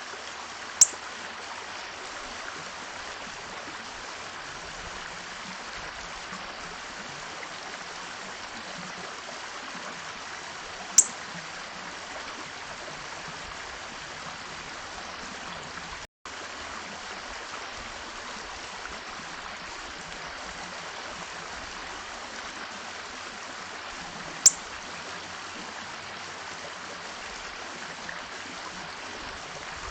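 Three brief, high chirps from small birds at a feeder: one near the start, one about a third of the way in and one near the end. Under them runs a steady rushing noise like flowing water, which drops out for an instant about halfway.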